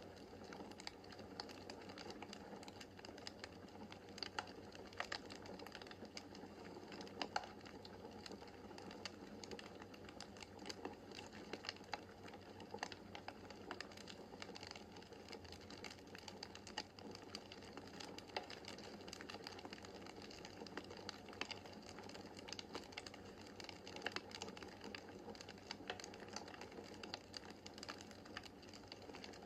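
Wood fire crackling in a fireplace: a steady hiss of the flames with irregular small sharp pops and snaps from the burning logs.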